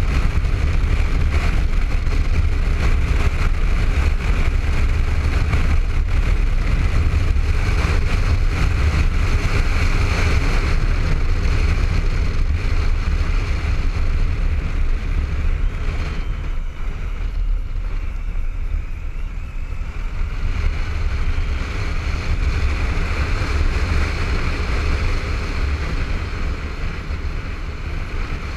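Riding noise from a Honda ST1300 motorcycle at speed: a steady rush of wind over the helmet-mounted camera with a heavy low rumble, easing for a few seconds a little past the middle.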